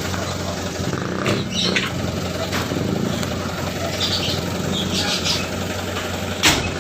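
Truck engine idling steadily, with a few short hisses and a sharp knock near the end.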